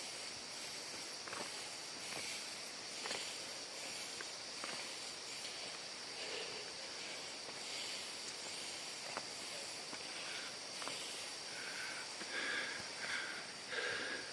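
Outdoor trail ambience: a steady hiss under a continuous high insect drone, with scattered light footsteps and a few short high chirps near the end.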